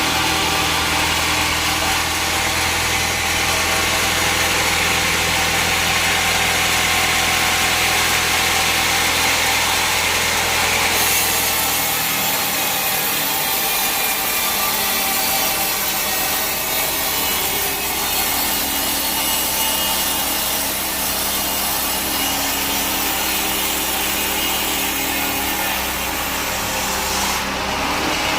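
Bandsaw sawmill blade cutting through a teak log: a continuous hiss of the cut over the mill's running motor. About twelve seconds in the low hum drops away and the hiss grows brighter.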